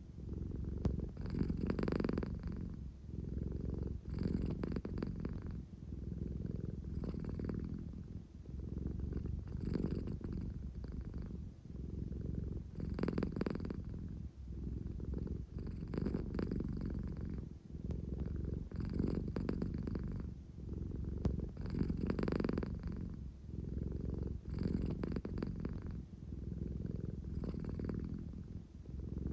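American Shorthair cat purring steadily, the rumble swelling and easing about every three seconds. This is the purr of a sleepy cat wanting affection.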